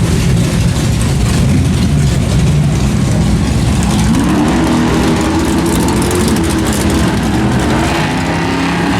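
Loud car engine rumbling unevenly; about four seconds in its pitch rises, then holds steady.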